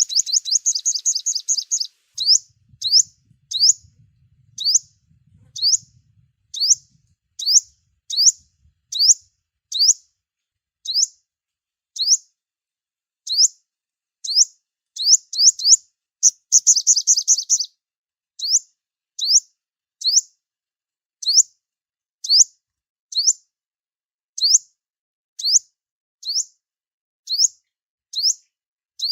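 Sunbird call used as a trapping lure: a steady series of short, high, sharply falling chirps, a little more than one a second, with a fast run of rapid chirps at the start and again about halfway through.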